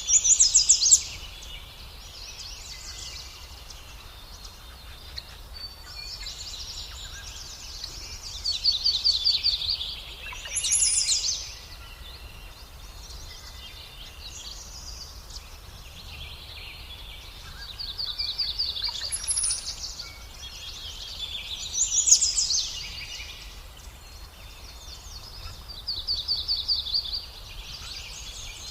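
Small birds calling in short, high-pitched rapid trills, about six bouts a few seconds apart, over a steady low background rumble.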